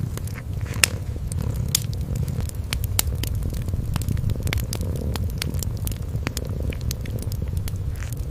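A cat purring in a low, steady rumble, with a wood fire crackling over it in sharp, irregular pops and snaps, a few each second.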